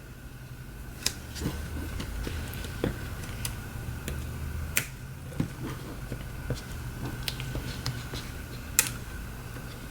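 Scattered light clicks and taps from hands and tools working small pieces of tape onto a phone's frame, coming irregularly about once a second, over a steady faint hum.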